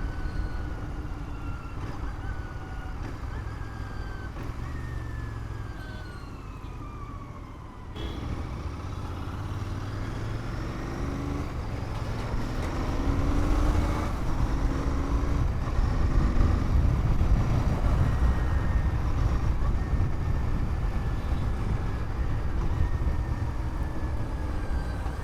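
Motorcycle engine and road traffic heard while riding, the engine pitch gliding down and up with the revs. The sound changes abruptly about eight seconds in and is louder in the second half.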